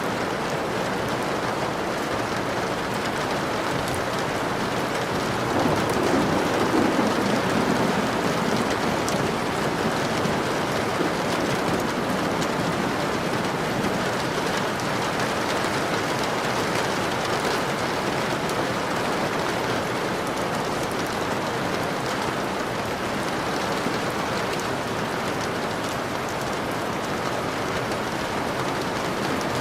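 Steady rain falling and pattering on surfaces. A low rumble of thunder swells about six seconds in and fades over the next few seconds.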